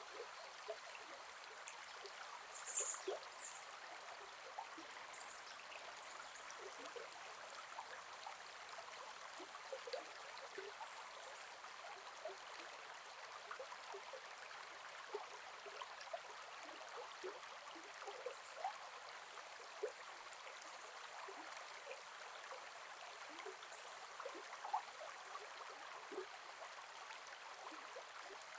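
Gentle forest river flowing: a steady rush of water with many small plinks and gurgles. A brief high chirp about three seconds in.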